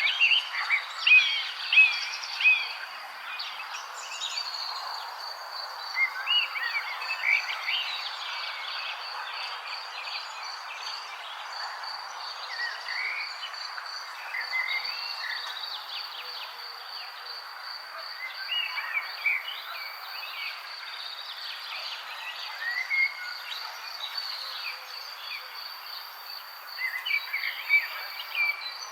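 Songbirds chirping and twittering in short clusters of calls, over a steady, fast-pulsing high trill and a constant background hiss.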